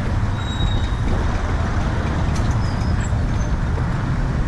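Road traffic on a busy city street: a steady rumble of passing cars, buses and trucks, with a few faint short high tones over it.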